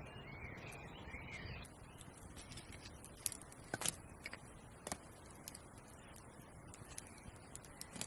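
Birds chirping for the first second and a half over soft outdoor background noise, then a few scattered sharp clicks and taps.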